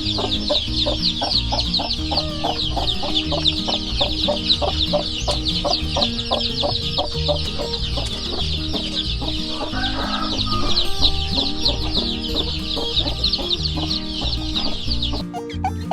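A brood of newly hatched chicks peeping continuously in many quick, overlapping cheeps, over background music. Both cut off suddenly just before the end.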